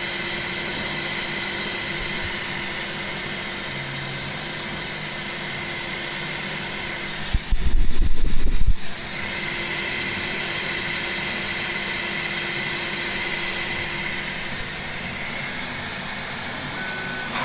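Steady fan hum and stepper-motor whine from two 3D printers running, a Bambu Lab P1S going through its pre-print calibration moves and a Prusa printing. About seven seconds in, a loud low rumble lasts about a second and a half.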